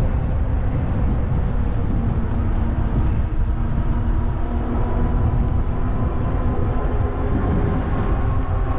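Steady wind rumble on the action camera's microphone while riding an e-bike along a trail, with a faint steady hum underneath.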